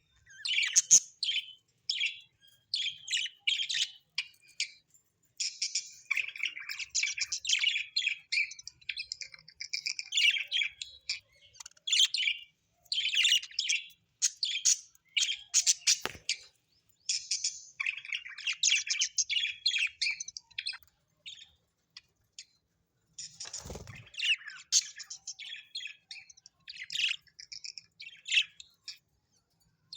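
Small parrots chirping and chattering in quick, busy bursts with short pauses between them. A sharp click cuts in partway through, and a low thump comes later.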